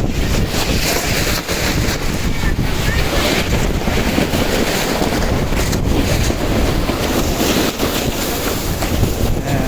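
Strong, gusting wind buffeting the microphone: a loud, continuous rumbling roar without a break.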